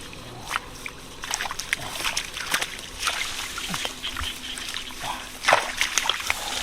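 Irregular splashing and sloshing of shallow water, with many short sharp splashes and drips scattered through.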